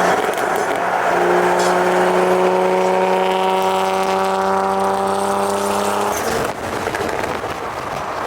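Car engine and exhaust held at steady revs, a sustained even-pitched drone over road noise, which drops away about six seconds in.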